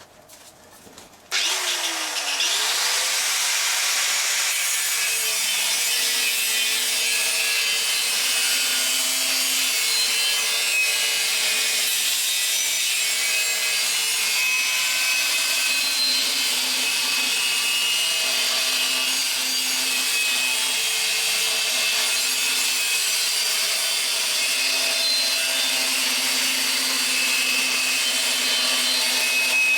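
A power tool cutting or grinding the steel of a truck leaf spring. It starts suddenly about a second in and then runs steadily: a harsh, hissing grind over a wavering motor hum.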